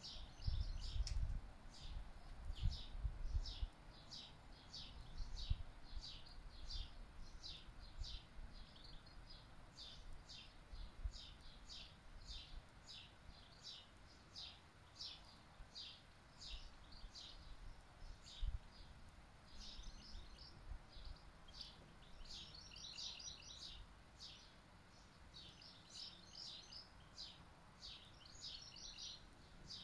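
A bird repeating a short high chirp, about one to two a second, in places running into quick clusters. Wind buffets the microphone in the first few seconds.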